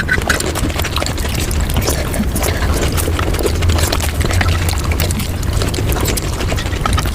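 Mukbang eating sounds sped up to five times speed: chewing, smacking and wet mouth noises run together into a dense, fast patter of clicks over a steady low rumble.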